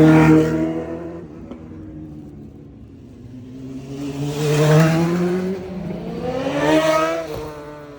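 Car engines accelerating hard. A run that is already underway fades in the first second, then the engine note climbs in pitch to a peak twice, about four to five seconds in and again near seven seconds, dying away after each.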